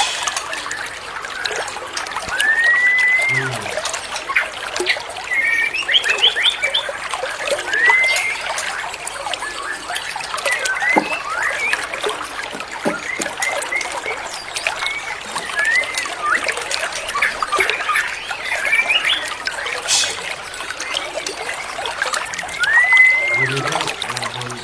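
Water trickling and splashing steadily, with a white-rumped shama (murai batu) singing over it: a loud rising whistle every few seconds and short bursts of quick chattering notes in between.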